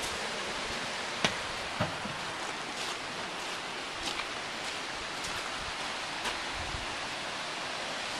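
A steady rushing hiss of outdoor noise, with a few sharp clicks, the loudest about a second in and again just under two seconds in.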